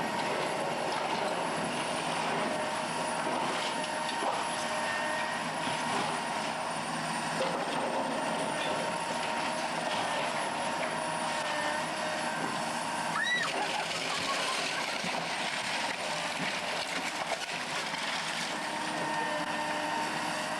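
A steady engine drone that runs on without a break, carrying a few steady tones, with a short chirp about 13 seconds in.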